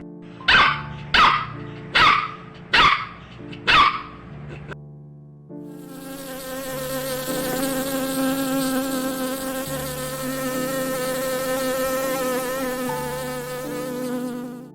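Five short, sharp animal calls in quick succession, then a flying insect buzzing steadily for about nine seconds, its pitch wavering slightly.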